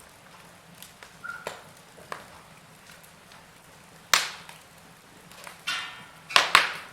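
Wood fire crackling in a fireplace: irregular snaps and pops over a faint hiss, with a loud crack about four seconds in and a quick run of sharp pops near the end.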